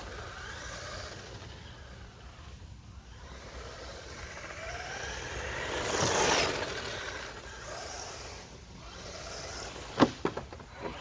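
Brushless electric motor and drivetrain of a 1/10-scale Maverick Strada RX rally car whining up and down in pitch as it is throttled on and off, with tyre and dirt noise, loudest as it passes about six seconds in. A few sharp knocks about ten seconds in.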